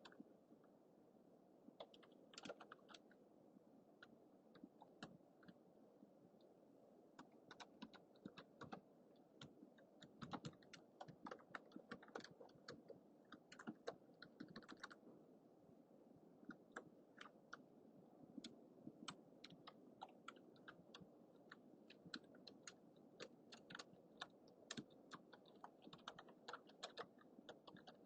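Quiet typing on a computer keyboard: irregular runs of keystroke clicks broken by short pauses, over a steady low background hiss.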